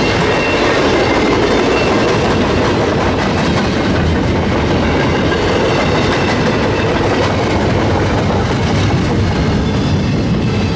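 Freight train cars rolling past, their wheels clattering steadily over the rails.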